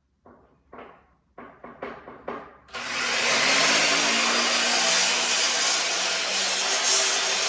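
A series of light knocks and clatters, then an electric power tool switches on about three seconds in and runs steadily at full speed.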